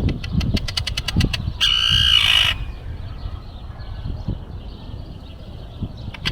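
A gull giving one harsh call just under a second long, right after a quick run of sharp clicks, over a steady low rumble.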